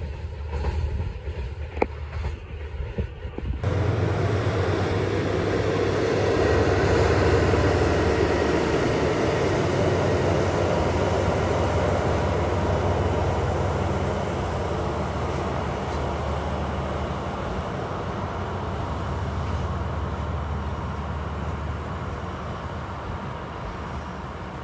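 A DF200 diesel-electric freight locomotive hauling container wagons runs through the station. Its engines give a steady low drone over rolling wheel noise, loudest about seven seconds in and then slowly fading. The opening few seconds hold only a quieter rumble with a sharp click.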